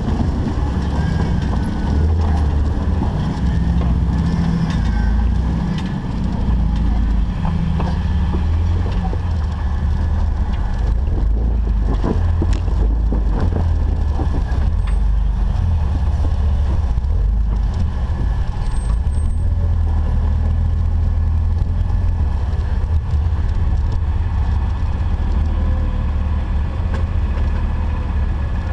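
Off-road 4x4's engine running steadily at low revs as the vehicle crawls, a deep rumble throughout, with a few sharp knocks about halfway through.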